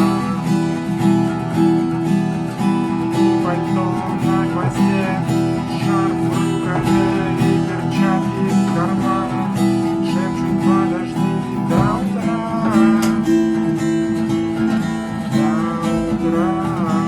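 Acoustic guitar strummed in a steady rhythm, chords ringing between the strokes. The strumming includes the percussive muted 'knock' (стук) stroke that the lesson teaches.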